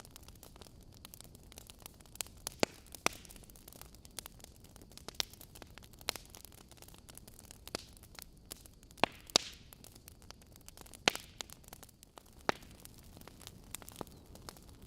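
Wood fire crackling in a fireplace: sharp irregular pops and snaps from the burning logs over a low steady hiss.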